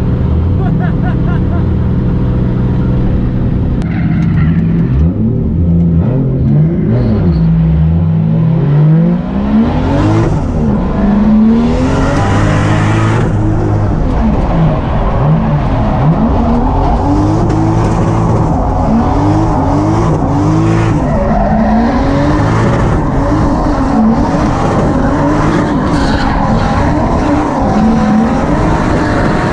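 Drift car engines running at high revs, held fairly steady at first, then from about nine seconds in the revs rise and fall again and again as the throttle is worked through the slides, with tyres squealing.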